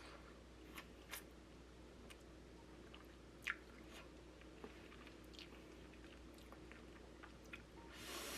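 Faint close-up eating sounds of sticky rice and meat being chewed, with scattered small clicks and mouth smacks. A short breathy rush comes near the end.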